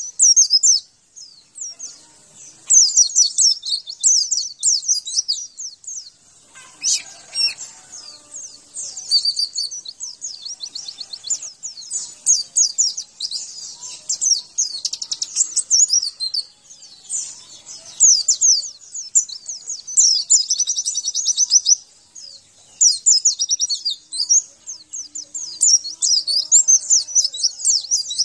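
White-eye (pleci) song: rapid, very high-pitched chirping trills, delivered in bursts of a few seconds separated by short pauses.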